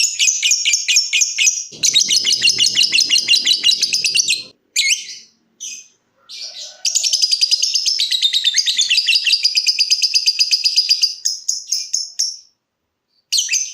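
Lovebird singing its rapid, shrill chattering trill, the long unbroken 'ngekek' song prized by Indonesian lovebird keepers. A run of about four and a half seconds, a few short single calls, then another long run of about five and a half seconds that breaks off near the end.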